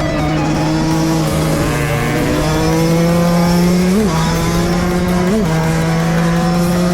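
Two-stroke dirt bike engine running hard under load, its pitch creeping slowly upward, with two quick rises and falls in revs about four and five and a half seconds in.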